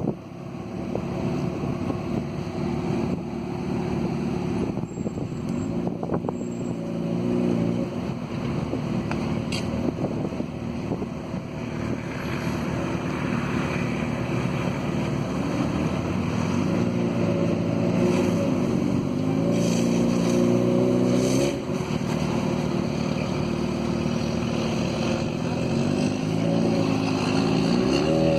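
Vehicle engines running steadily, their pitch rising and falling several times in the second half, over a noisy rush with some wind on the microphone.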